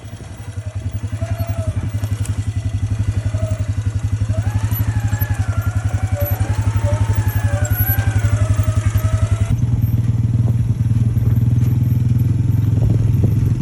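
Four-wheeler (ATV) engine running steadily, growing louder, with a step up in level about two-thirds of the way in.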